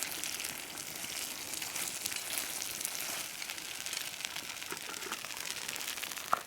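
Food sizzling and frying in a pan: a steady crackling hiss, ending in a sharp click and cutting off suddenly.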